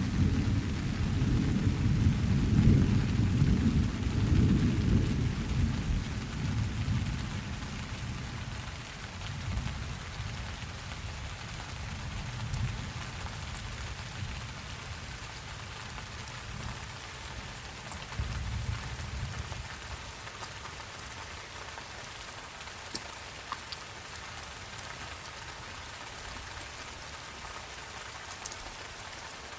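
Steady rain with a long roll of thunder rumbling through the first several seconds and dying away. A fainter rumble swells briefly past the middle, and a few light drip ticks sound near the end.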